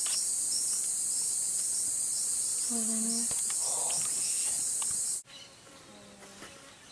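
A dense, steady, high-pitched chorus of Amazon rainforest insects, with a faint pulsing note running through it. It cuts off suddenly about five seconds in, leaving quieter forest ambience.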